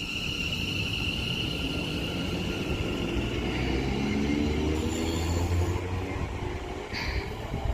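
West Midlands Railway Class 730 electric multiple unit pulling away from the platform. Its traction motors whine in several tones that climb in pitch as it accelerates, over a high steady tone that fades in the first few seconds.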